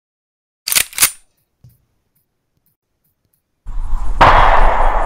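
Sound effects on a stop-motion soundtrack: two quick, sharp clicks about a second in. Then, about a second before the end, a loud, sustained noisy rush starts, with a low rumble beneath it.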